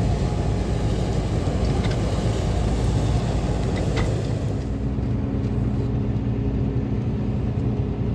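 A farm vehicle's engine running with a low rumble. About halfway through it settles into a steadier hum.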